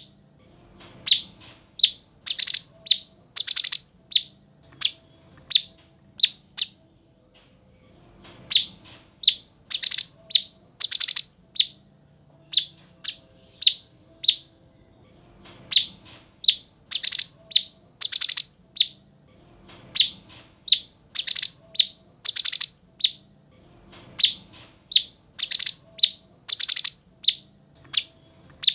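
Cucak cungkok songbird singing: series of short, sharp, high chirps broken every few seconds by pairs of louder, harsh, buzzy notes, the phrase pattern repeating over and over.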